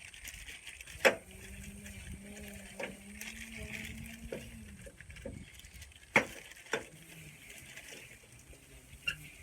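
Scattered sharp knocks and clicks of tools and parts being handled, the two loudest about one and six seconds in, over a faint low steady hum.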